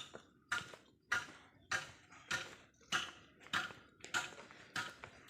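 Footsteps at a steady walking pace, a little under two steps a second, each step a short scuffing sound.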